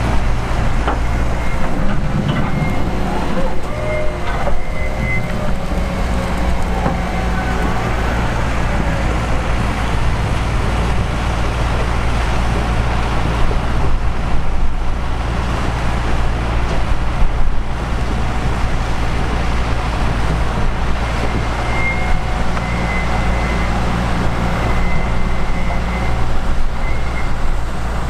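Heavy diesel farm machinery running steadily at work, a loud low rumble, with a faint high whine that comes and goes.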